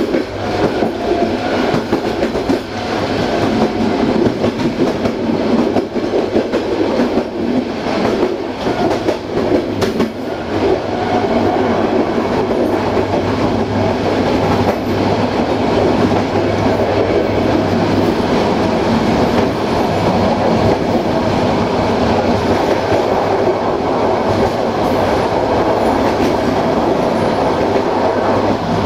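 Passenger train running along the line: a steady noise of wheels on rails, with a few sharp clicks over rail joints in the first ten seconds.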